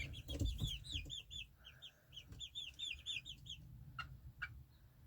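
Young chickens peeping: a quick run of short, high chirps, several a second, that stops about three and a half seconds in. Two soft knocks follow near the end.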